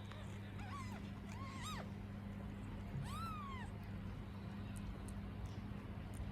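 Kittens mewing: three short, high-pitched mews in the first few seconds, the longest about three seconds in, over a steady low hum.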